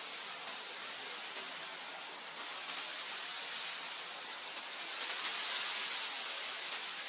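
Wind blowing steadily as an even hiss, swelling slightly about five seconds in.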